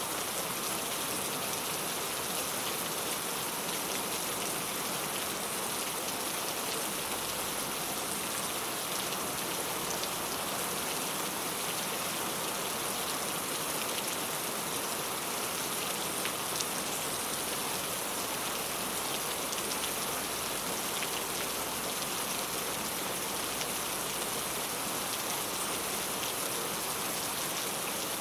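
Steady rain falling on a clay tile roof: a dense, even patter of many small drop impacts.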